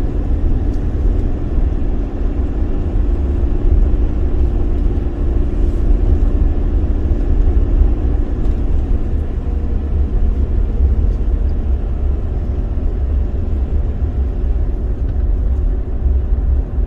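Steady road and engine rumble of a moving car, heard inside the cabin.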